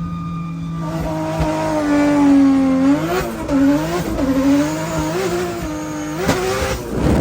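Car engine revving hard, its pitch climbing and then rising and falling again and again with the throttle, over tyre noise, as in a drift run. There is a sharp knock about six seconds in.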